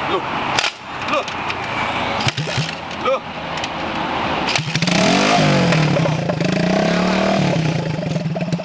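Custom Honda Megapro motorcycle's single-cylinder four-stroke engine with a custom exhaust being started: a brief cranking attempt about two seconds in, then it catches about halfway through, revs up and down a few times and keeps running.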